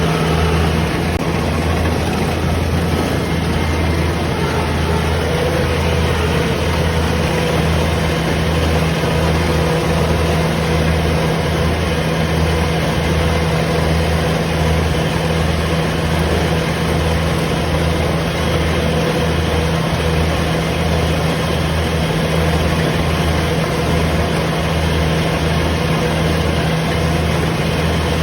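Combine harvester running steadily at an even engine speed, a continuous low engine hum under the noise of its machinery.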